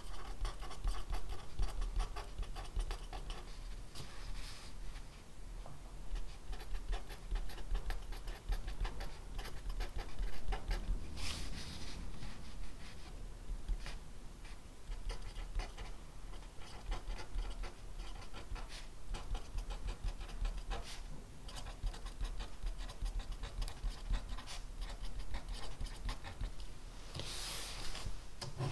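Pen writing on paper: a dense run of small scratchy strokes, with two brief louder swishes, about 11 seconds in and near the end.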